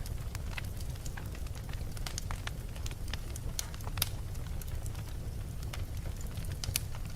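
Wood fire burning in a fireplace: a steady low rumble with irregular sharp crackles and pops, one louder pop about four seconds in.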